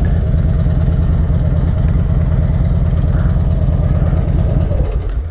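Harley-Davidson Dyna Switchback's air-cooled V-twin idling with a steady, loping beat, then shut off at the very end.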